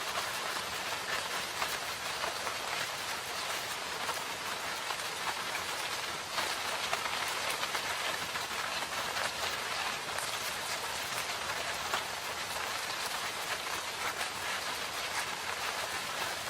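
Steady rain falling in a forest, a dense hiss of drops with fine patters of individual drops on leaves and surfaces.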